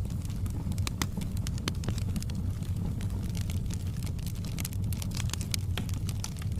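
Fire crackling in a fireplace: frequent sharp pops and snaps over a steady low rumble of the flames.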